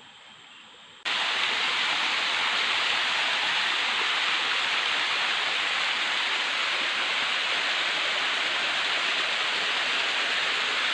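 Water rushing in a small stream, a steady loud rush that starts suddenly about a second in.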